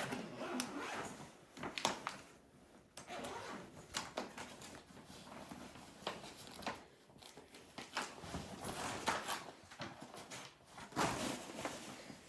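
Rustling and scraping of a brand-new horse blanket being handled: a string of short, irregular rustles with a few light knocks.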